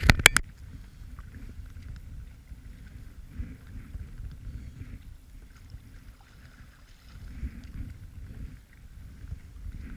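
Kayak among thin lake ice: a quick cluster of three or four sharp knocks at the very start, then a steady low rumble of wind on the microphone with faint scattered crackling.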